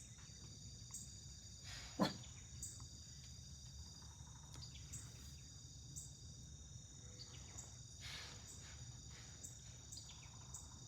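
Crickets trilling steadily in the background, with two short, breathy blows from a deer hidden at the edge of the woods, about 2 seconds in and again about 8 seconds in: the alarm snort of a deer that has spotted a person.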